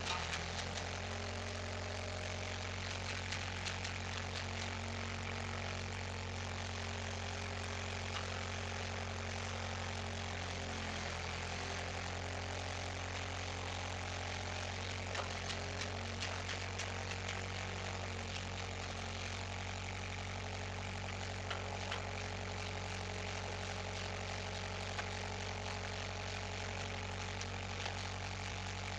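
An engine idling steadily, with scattered faint clicks and ticks over it.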